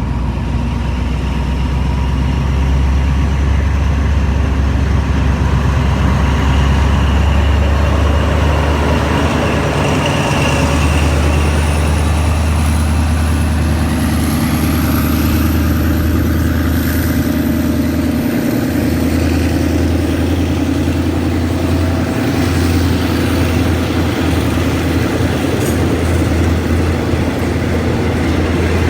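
Diesel locomotive hauling a passenger train away from a station: a loud, steady engine drone, with a thin whine that rises slowly in pitch as the train gathers speed.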